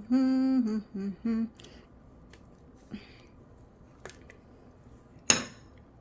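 A person humming a short tune, one held note then two short ones, over the first second and a half. Then a few faint clicks, and near the end a single sharp clink with a brief ringing edge, the loudest sound here.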